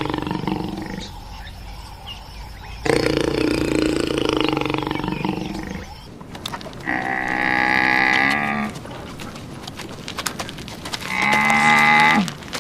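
Farm animal calls: a cow mooing in two long, low calls, then two shorter, higher-pitched calls from another animal.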